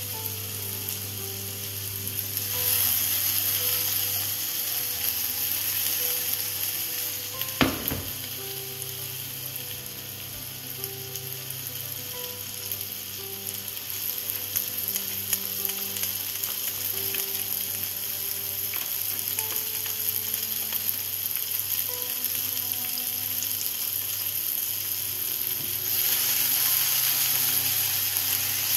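Potatoes frying in oil in a pan with a steady sizzle that swells a couple of seconds in and again near the end. One sharp knock sounds about eight seconds in.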